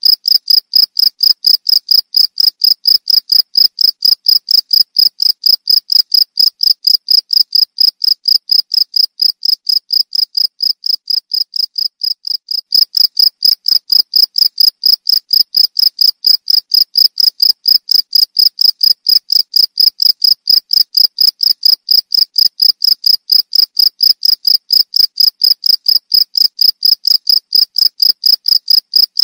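Cricket chirping steadily, a high-pitched pulse repeated about three times a second. It fades a little about ten seconds in, then comes back abruptly at full strength.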